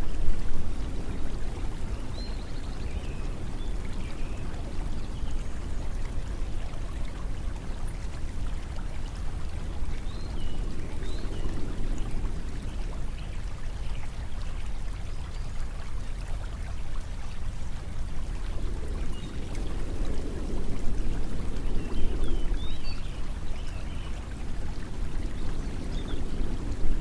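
Steady rushing of flowing water, with a low rumble that swells and fades slowly every several seconds. Faint, short high chirps come now and then.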